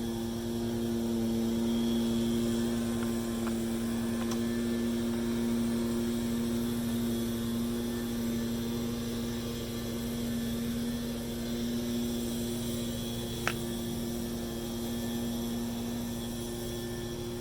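A steady mechanical hum at one even pitch, with a few faint clicks and one sharp click about thirteen seconds in.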